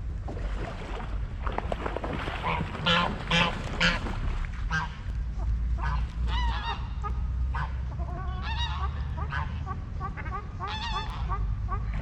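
Waterfowl calling over and over at a lake: a run of loud honking calls about three to four seconds in, then many shorter overlapping calls, over a steady low rumble.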